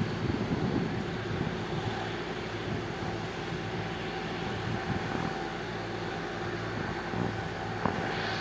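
A machine running steadily: an even low hum with a steady higher whine over it, and a single click near the end.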